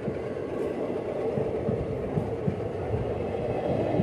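Indian Railways passenger coaches of a departing express rolling past: a steady rumble of wheels on rail, with irregular low knocks from the wheels.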